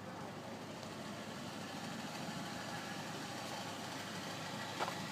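2012 Chevrolet Colorado's 2.9-litre Vortec four-cylinder engine idling faintly and steadily, with one short click near the end.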